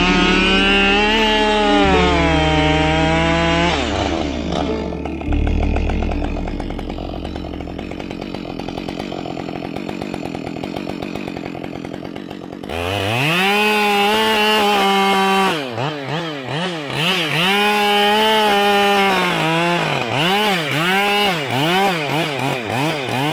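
Two-stroke chainsaw running at full throttle, its pitch sagging and recovering under load as it cuts wood. About four seconds in it drops back and runs quieter. Near the thirteenth second it revs sharply back up and cuts again, with a run of quick revs near the end.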